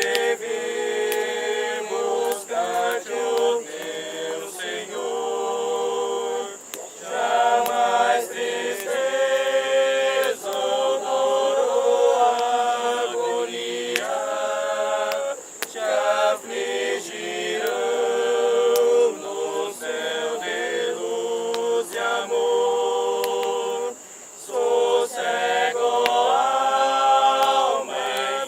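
A group of people singing together without instruments.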